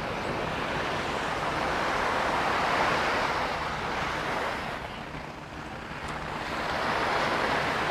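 Small sea waves washing up onto a sand beach, the wash swelling and easing: louder about three seconds in, dropping back a little after five seconds, and rising again near the end.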